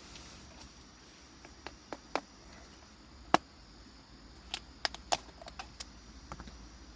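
Kitchen knife knocking on a cutting board while chopping food, about nine irregular sharp knocks, the loudest a little past three seconds in.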